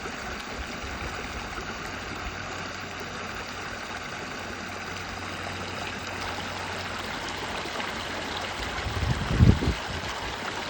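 Backyard waterfall splashing steadily, heard close up. About nine seconds in there is a brief low rumble, the loudest moment.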